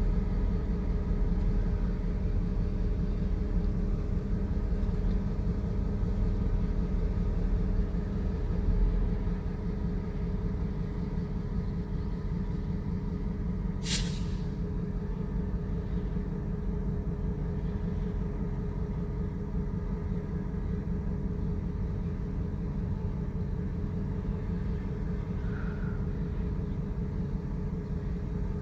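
Log train running past: steady low rumble of the locomotive and rolling cars, with a few steady tones over it, a little louder for the first several seconds. A single brief, sharp hiss comes about halfway through.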